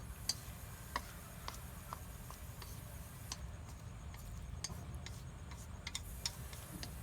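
Scattered light clicks and taps at irregular intervals, over a steady low rumble.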